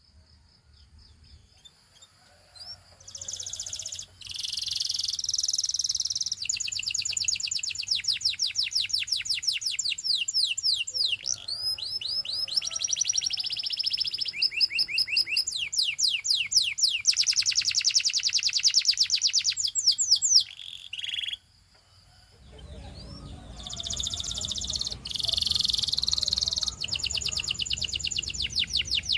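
Domestic canary singing: long runs of fast, evenly repeated trilled notes that change pitch from run to run. It starts after a quiet few seconds, breaks off briefly about three-quarters of the way through, then goes on.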